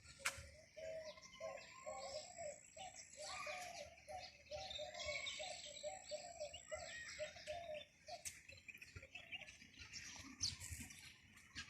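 Several birds chirping and calling, with a run of short repeated lower calls over the first seven seconds or so. There is a single sharp click just after the start.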